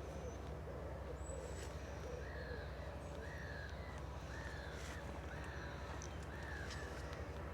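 A bird in woodland calling about six times in a row, roughly once a second, with fainter chirps of other birds over a steady low background rumble.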